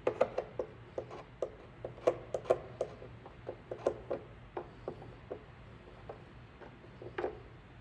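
A hot plastic-repair tool's tip tapping and scraping over ATV body plastic, working melted plastic over the repair staples to cover them. It makes irregular light clicks, several a second and thinning out after about four seconds, over a steady low hum.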